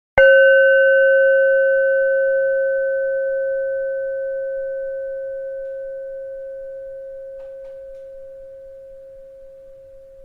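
A bell struck once just after the start, ringing on one clear pitch with a few higher overtones and slowly dying away.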